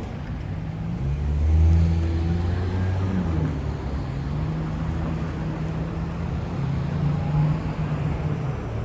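A bus engine running as it passes close by, loudest about one to three seconds in, then settling into a steady low hum.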